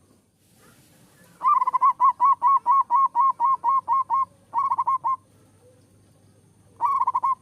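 Zebra dove (perkutut) singing: a quick run of about a dozen cooing notes, followed by two short runs of about four notes each.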